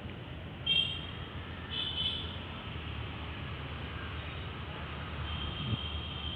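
Steady outdoor rumble of distant traffic, with two short high chirps about a second and two seconds in and a longer thin high tone near the end.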